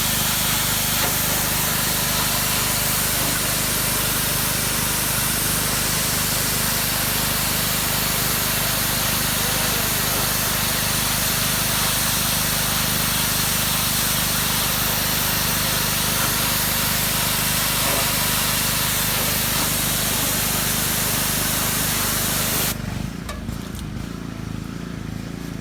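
Pressure washer spraying water onto cedar siding: a steady hiss over the machine's low running hum. Near the end the spray cuts off suddenly, leaving a quieter hum.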